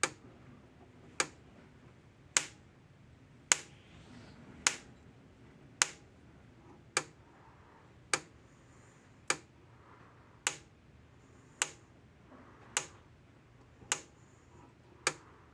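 An American Farmworks 120-mile electric fence charger's output sparking from fence to ground: a sharp snap with every pulse, evenly spaced a little over once a second. The sparks are hot, from a repaired unit putting out just under 9,000 volts.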